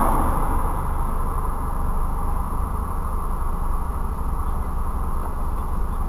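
Steady low hum of a stationary car's engine idling, heard from inside the cabin through a dashcam microphone, with a faint high electronic whine over it.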